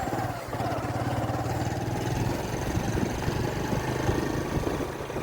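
A vehicle engine running steadily, with a low hum and a faint high whine that starts about two seconds in.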